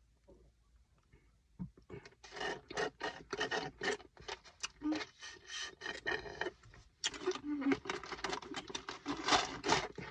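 Drinking straw slurping at the bottom of a nearly empty cup of lemonade, a rapid raspy sputter that starts about two seconds in and goes on with a short break partway through.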